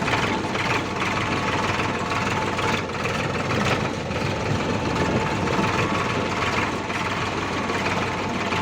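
Escort tractor's diesel engine running steadily.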